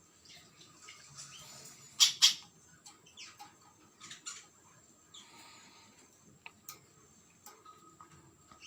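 Spiderhunter giving short, sharp call notes, loudest as a quick pair about two seconds in, followed by softer scattered chips and small clicks.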